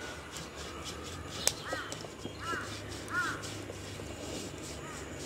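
A bird calling three times in short arched caws, a bit under a second apart, with a fainter call near the end. A single sharp click, the loudest sound, comes just before the first call.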